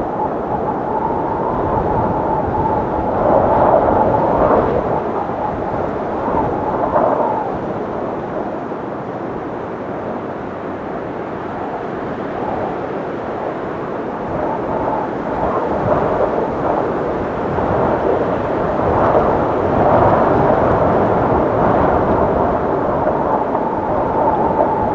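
Strong wind blowing steadily, a deep rush with a faint high whistle on top, swelling in gusts about four seconds in and again around twenty seconds.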